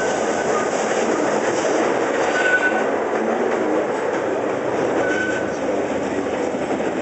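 Open-car ride train running on its track: a steady rumble of wheels on rails, with three short high squeals about two and a half seconds apart.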